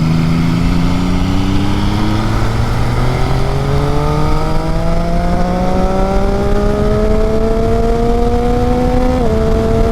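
Motorcycle engine pulling hard as the bike accelerates, its pitch rising steadily for about nine seconds before dropping slightly at a gear change, with wind noise on the helmet microphone.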